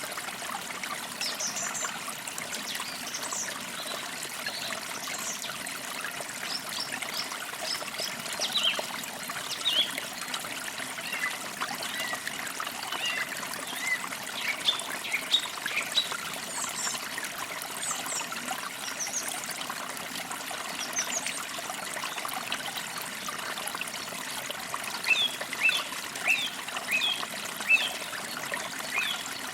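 Forest creek trickling steadily, with birds chirping throughout. A quick run of repeated chirps comes near the end.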